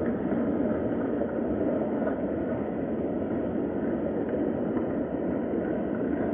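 Steady rain falling, an even, dull hiss that does not change.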